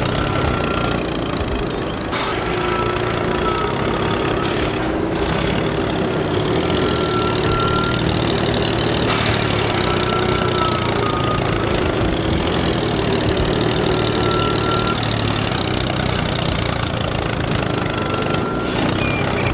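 A model mini tractor running steadily with an engine-like chug as its spinning cone-shaped drill bores into a rock, with a faint whine that comes and goes.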